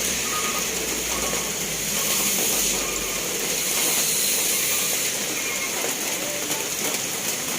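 Steady rain falling: a continuous even hiss with faint scattered drop ticks, and a low rumble underneath that fades out in the first few seconds.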